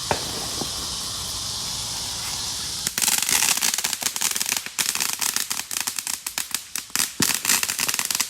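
Fireworks: a steady hiss, then about three seconds in a burst of rapid, crackling firecracker pops that keeps going.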